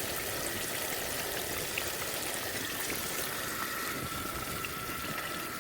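Fish fillets deep-frying in hot oil: a steady, even sizzle. A faint thin tone runs under it and steps lower about three seconds in.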